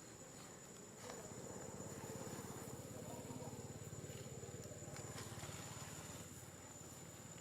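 An engine running steadily nearby, a low pulsing rumble that sets in about a second in.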